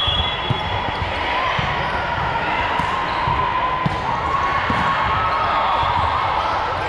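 Crowd chatter in a large gym during a court match, with a few sharp thuds.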